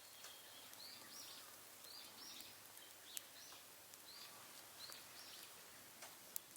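Faint bird calls: short chirps repeated about twice a second, often in pairs. A few sharp crackles from the burning wood fire, the loudest about three seconds in.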